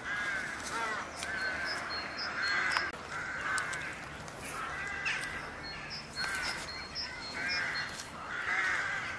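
Birds calling over and over: a run of short calls, roughly one or two a second, with a few faint high peeps above them.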